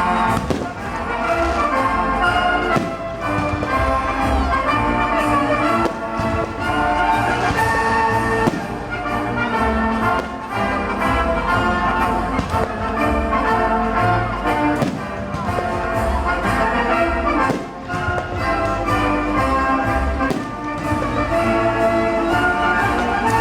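Orchestral music with brass playing chords and melody over steady percussion, with frequent sharp hits or thuds among it.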